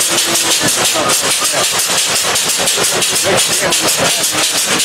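A train passing close by: a loud, fast, even pulsing noise of about eight to nine beats a second.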